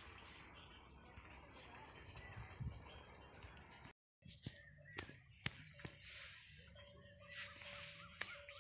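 Steady high-pitched drone of insects, with outdoor background noise. The sound drops out for a moment about four seconds in, and then short chirps and clicks sound over the drone.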